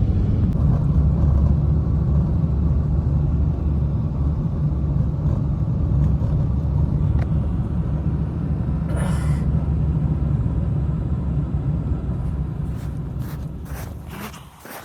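A loud, steady low rumble that fades out near the end, with a few clicks as it dies away.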